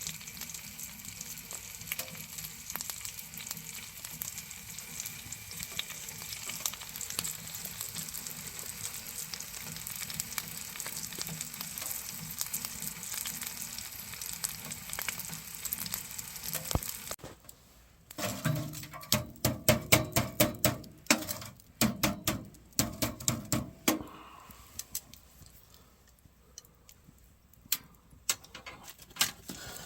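Wood fire crackling in a small wood-burning stove: a steady hiss dense with small pops and snaps. About two-thirds of the way in it stops abruptly, and a run of loud, irregular knocks and clatters follows, then a few sparse clicks.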